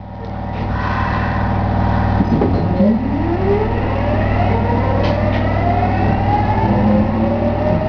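Nagoya Municipal Subway Tsurumai Line train heard from on board, pulling away and accelerating: a steady low hum with a whine of several tones that starts a couple of seconds in and climbs in pitch as the train gathers speed.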